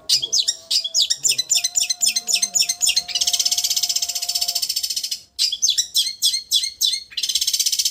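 Long-tailed shrike (cendet) song in the 'getar' style: runs of fast, high chirps that merge into a dense, vibrating trill. The song breaks off briefly twice, right at the start and about five seconds in.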